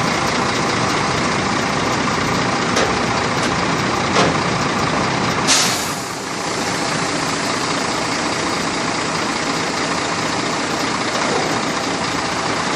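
Scania truck diesel engine running steadily, with a sudden short hiss of air brakes releasing about five and a half seconds in.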